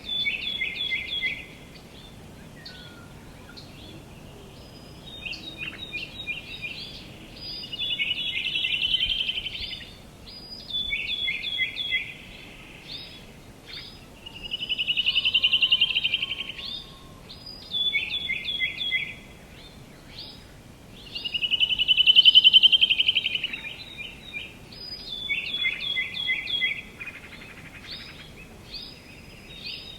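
Songbirds singing: repeated phrases of quick, short down-slurred notes alternating with louder buzzy trills about every six to seven seconds, over a faint steady outdoor hiss.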